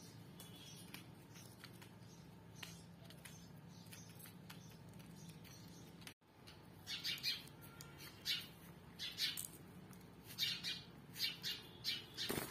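Birds chirping: a run of short, high chirps through the second half, over a faint steady low hum that fills the quieter first half.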